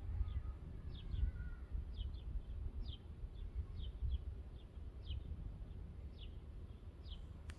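A small bird calling over and over: short high chirps, each dropping slightly in pitch, about one or two a second, over a steady low rumble.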